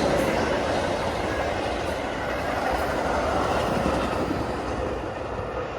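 Express commuter train passing at speed without stopping, its wheels clattering over the rails, the noise steadily fading as it moves away.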